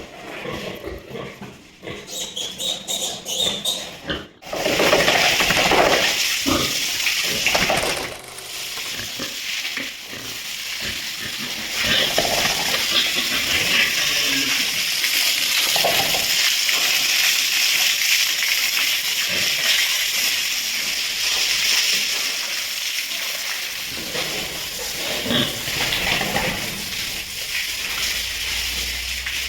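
Pigs grunting and squealing, then from about four seconds in a steady hiss of water spraying, as when a pig pen is hosed down, with pig squeals now and then over it.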